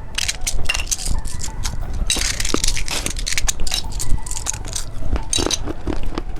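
Close-miked, rapid clicking and crackling of a bicycle-shaped candy in its hard plastic packaging being handled and taken off.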